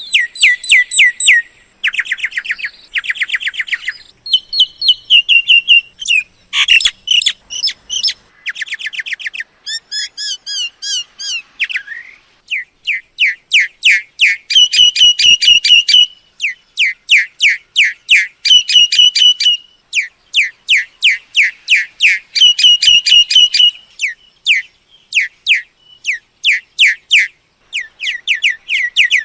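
Myna calls: rapid runs of repeated sharp chirps and whistled notes, coming in bursts of a second or two with short gaps between them.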